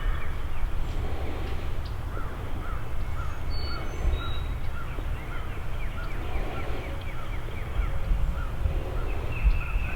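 A bird calling a long, even series of short notes, about two a second, over a steady low rumble of wind or handling noise.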